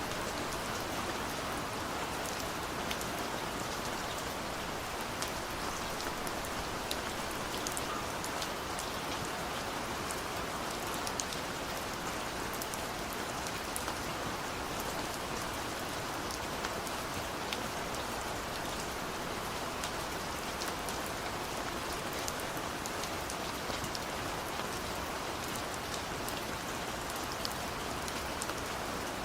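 Steady rainfall, an even hiss with many small drops ticking on surfaces.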